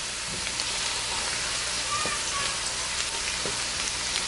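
Chopped garlic and green chilies sizzling steadily in a few tablespoons of hot oil in a wok over medium-high heat, the garlic browning lightly. A few light clicks come as the pan is stirred.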